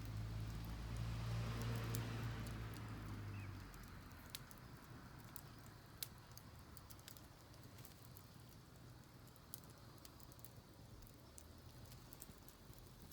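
Wood campfire crackling with scattered sharp pops, over a low steady hum that fades out about four seconds in.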